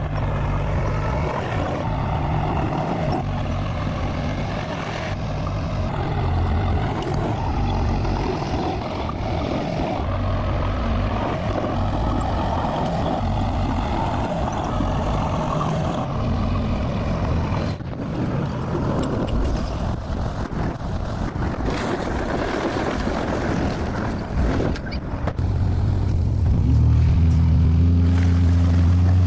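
Bulldozer's diesel engine running steadily under load, with a few metallic knocks, growing louder and deeper near the end.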